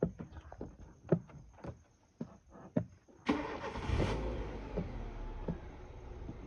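Deer hooves thudding irregularly on the ground as the deer gallop. About three seconds in, a vehicle engine cuts in suddenly and keeps running, slowly fading.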